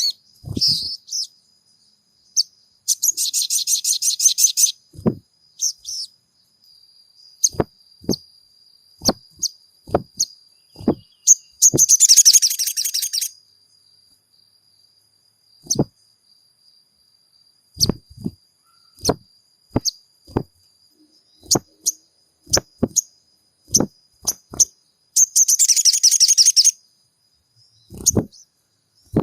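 Sogon bird calls: three bursts of rapid, high chattering trills, with sharp single clicks scattered between them over a faint steady high-pitched tone.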